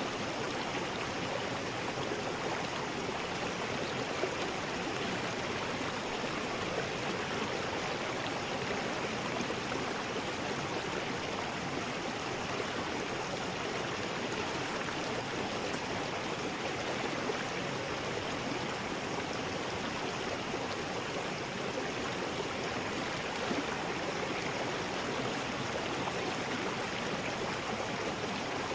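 River rapids: water rushing steadily over rocks, a continuous even roar.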